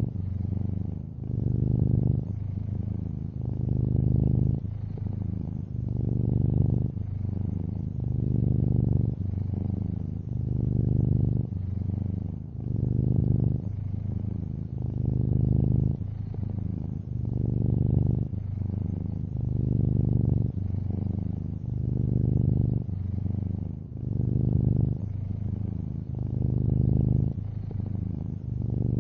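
Long-haired orange tabby cat purring: a low, continuous purr that swells and eases about every two seconds.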